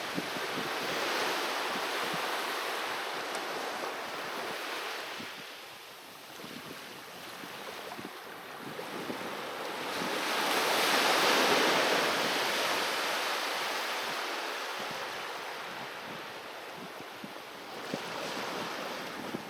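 Sea waves breaking and washing on the shore. The surf fades about a quarter of the way in, then a louder wave swells, peaks near the middle and slowly ebbs away.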